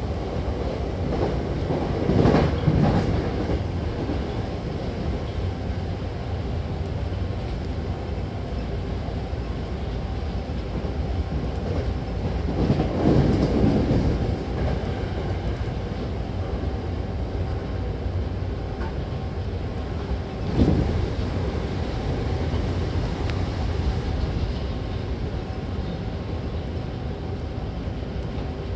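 Hankyu Takarazuka Line train running, heard from inside the car: a steady low rumble of the train in motion, with louder stretches about two seconds in and around twelve to fourteen seconds, and a short sharp knock about twenty-one seconds in.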